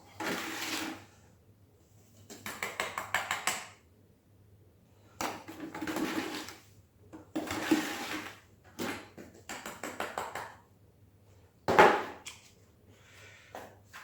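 Trowel scraping and spreading tile adhesive in repeated strokes of a second or so, some of them quick and ridged, with one sharp knock about twelve seconds in.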